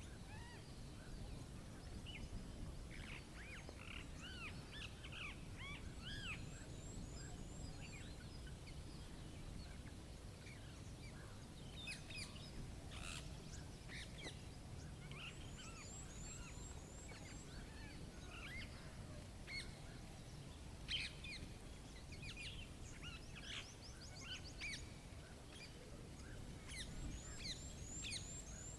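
Several birds chirping and calling in scattered short phrases, with a fast high trill coming in three times, over a steady low rumble of outdoor background noise.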